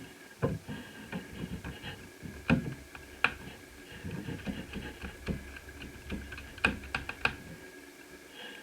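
Irregular clicks, taps and light knocks of laptop parts being handled, with louder sharp clicks about two and a half, three and a quarter, and near seven seconds in, over a faint steady high whine.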